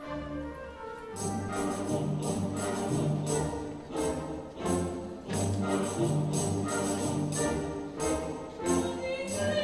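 Orchestral music. Held notes for about a second, then a steady beat of bright percussion strokes comes in under the sustained low and middle parts.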